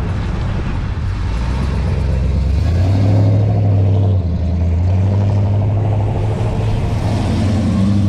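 Car engine running with a low, deep exhaust note as a vehicle drives off. The pitch steps up about three seconds in and rises again near the end as it revs.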